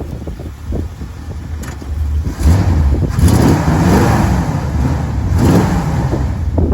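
1985 Chevrolet K20 pickup truck running as it drives over rough orchard ground, its engine a steady low rumble. A louder rushing noise swells in from about two seconds in and fades near the end.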